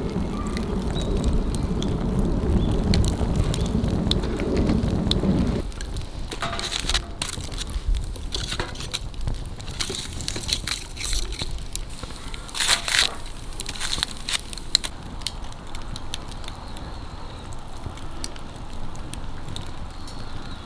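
Fire of dry fallen leaves crackling, with scattered sharp snaps and pops. For about the first five seconds a dense rustling, crunching noise runs under it, then stops suddenly.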